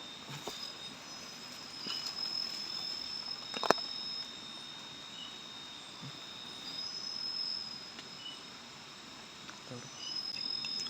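Night insects trilling in the forest, two steady high-pitched trills that start and stop in turn, with a few short faint chirps. A single sharp click or snap sounds a little before the middle.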